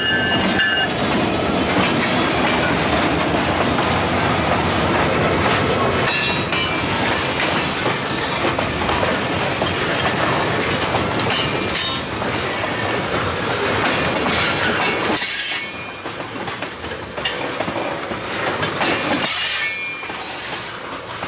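Freight train rolling past, its wheels clattering on the rails with high, thin wheel squeals near the start and again late on. The sound drops noticeably a little past the middle.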